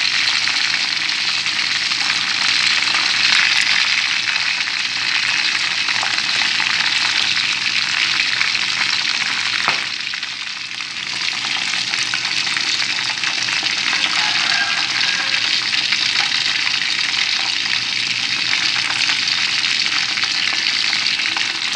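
Chicken wings frying in hot oil in an aluminium pan, a steady sizzle and crackle, with one sharp click and a brief drop in the sizzle about ten seconds in.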